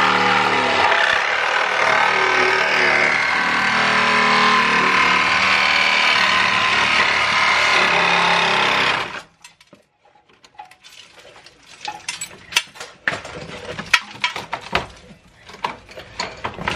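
A power cutting tool runs steadily under load, cutting through the car's steel. It stops abruptly about nine seconds in, followed by scattered light clicks and metal knocks.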